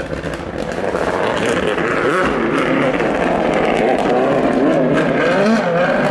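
Rally car engine revving hard, its pitch rising and dropping repeatedly through gear changes, with sharp cracks scattered through it. It grows slightly louder toward the end.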